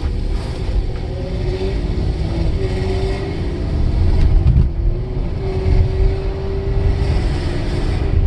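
Mercedes-Benz S600 W140's V12 engine accelerating the car from a standstill, heard from inside the cabin: the engine note climbs, eases about halfway through, then climbs again, over a heavy low road rumble.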